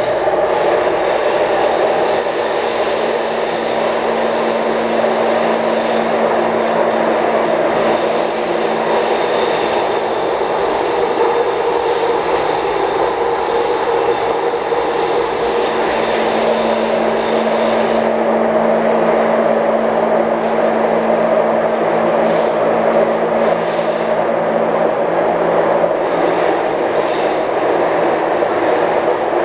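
Taipei Metro C301 train with retrofitted propulsion running between stations: a steady rumble of wheels on rail with a traction motor hum and high-pitched wheel squeal. The high tones fade about two-thirds of the way through.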